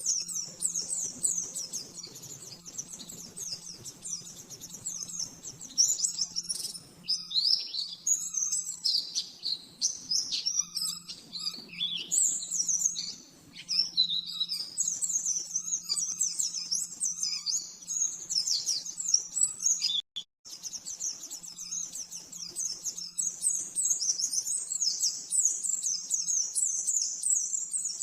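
White-eye (pleci) singing a fast, continuous run of high, sharp chirping notes in the rapid 'nembak' style, over a steady low hum. The song breaks off for a moment about twenty seconds in.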